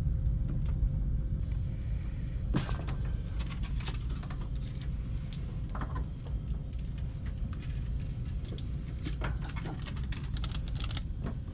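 Scattered clicks, taps and knocks of hands working a plug loose while unplugging a washer, the sharpest knock about two and a half seconds in and a cluster of clicks near the end, over a steady low hum.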